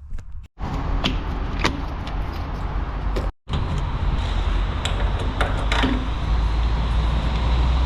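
Heavy truck engine and road noise across three short clips with abrupt cuts between them, with a few sharp clicks.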